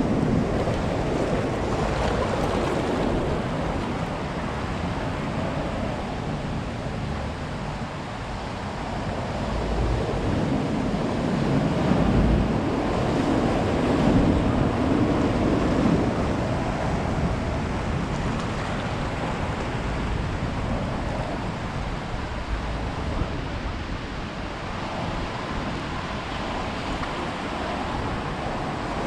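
Ocean surf: a steady rush of waves breaking and washing on a beach, swelling louder about halfway through.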